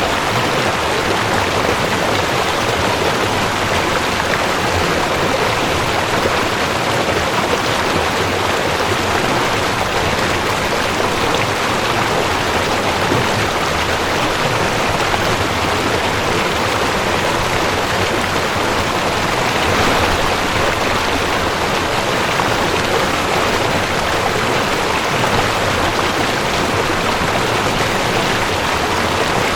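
Mountain stream rushing over rocks: a steady, even water rush without a break.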